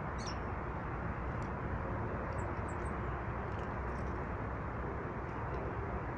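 Small birds at feeders giving a few short, high chirps, three in quick succession a couple of seconds in, over a steady rushing background noise.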